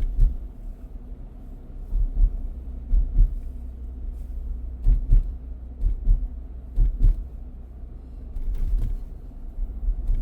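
Low steady rumble of a car driving, heard from inside the cabin, with short low thumps every second or two, some in quick pairs.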